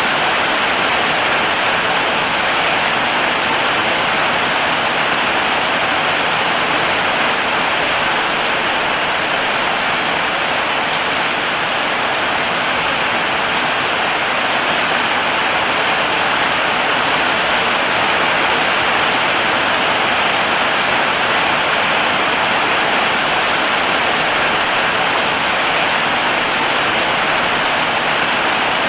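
Heavy rain falling steadily on a surface, a dense, even hiss with no distinct drops or thunder standing out.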